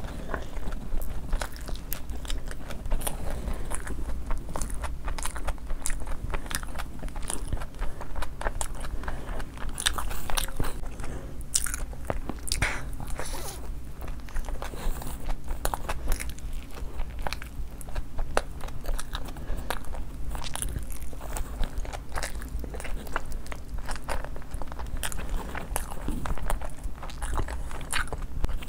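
Crunchy food being bitten and chewed, a dense run of irregular crackly crunches and mouth clicks throughout.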